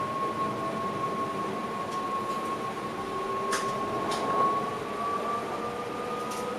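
Electric train's traction equipment whining in the driver's cab, a steady high tone with a few lower tones gliding, the top tone edging slightly higher in the second half as the train gathers speed. A few sharp clicks sound over it.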